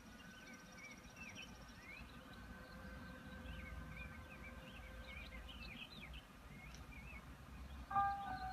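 Small birds chirping and twittering over a low, steady outdoor rumble. Near the end, music comes in sharply with sustained notes.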